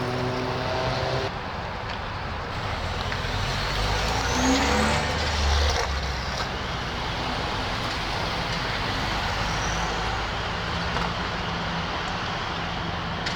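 Car engines and exhausts running, with one car revving or pulling away about four to six seconds in, where a rising whine climbs and the low exhaust note swells loudest.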